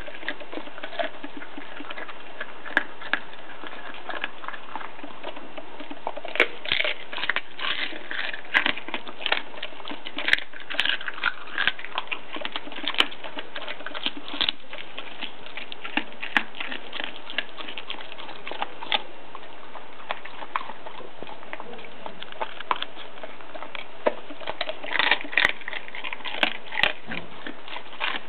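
A young Groenendael (Belgian Shepherd) dog chewing and crunching raw bone, from a rabbit head or a duck carcass. It makes an irregular run of sharp cracks and crunches, thickest through the middle and again near the end, with a sparser spell between.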